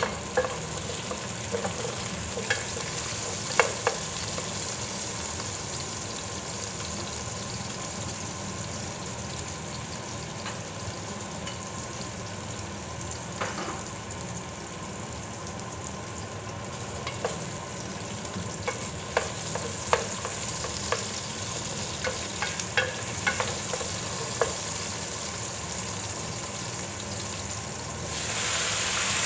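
Onions, garlic and ginger sizzling in oil in an aluminium pot, with a spoon clicking and scraping against the pot now and then. Near the end pork pieces go in and the sizzle gets louder.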